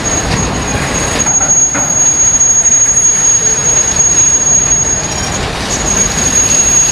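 A train rolling by with a steady rumble and a thin, high-pitched wheel squeal that holds one pitch throughout.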